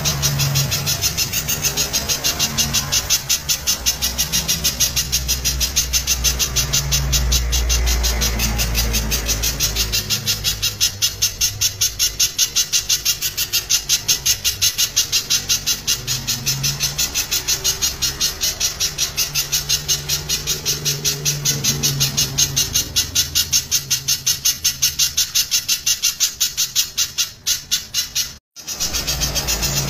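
Spiderhunter calling loudly in a rapid, unbroken run of sharp repeated notes, several a second, with the sound cutting out briefly near the end.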